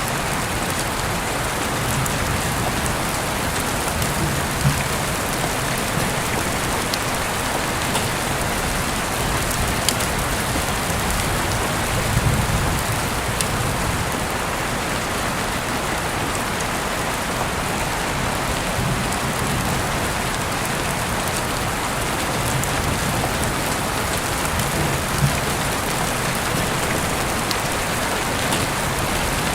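Heavy rain falling steadily, heard through an open window, with a few sharper drip taps standing out now and then.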